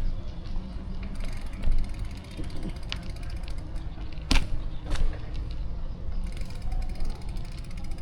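Bicycle freewheel ratchet ticking rapidly while the rider coasts, over a steady low rumble of wind and road. Two sharp clicks come about four and five seconds in.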